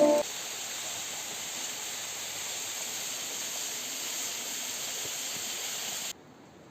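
Steady rushing of falling water from a waterfall, which cuts off suddenly about six seconds in.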